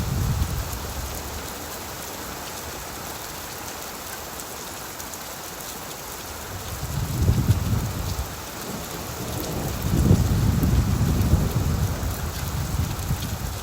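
Steady rain falling on leaves, an even hiss, with low rumbles of thunder swelling up about seven seconds in and again around ten seconds.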